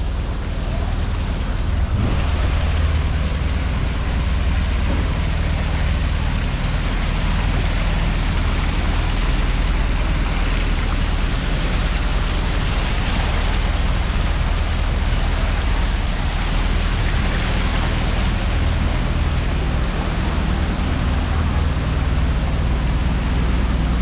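Steady rushing noise of rough, windy weather by the sea, with a deep wind rumble on the microphone.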